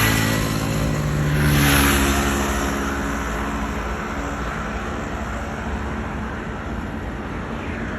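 Motor vehicles passing close by on a road: one passes right at the start and a louder one about two seconds in, engine note and tyre noise swelling and fading, then steady traffic noise.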